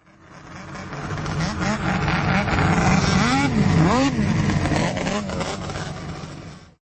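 Snowmobile engine being revved, its pitch rising and falling in several blips, the strongest a few seconds in, fading in at the start and out near the end.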